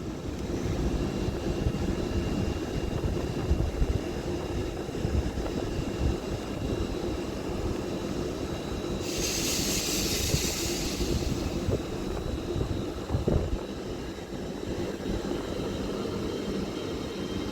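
A GWR Class 800 multiple-unit train pulling out, a steady rumble with faint high tones running over it. A burst of hiss comes about nine seconds in and lasts a couple of seconds.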